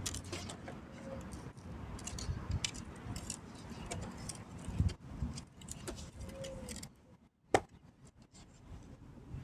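Light jingling rattles and clicks over a low rumble, with one sharp click about seven and a half seconds in after the sound dies down.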